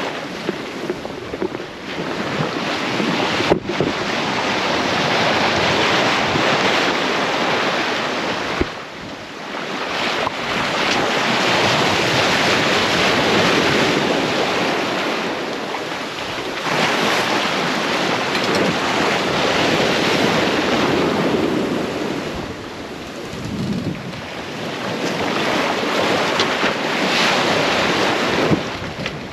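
Sea water washing and wind buffeting the microphone aboard a sailboat underway, swelling and easing every few seconds. A single sharp click about three and a half seconds in.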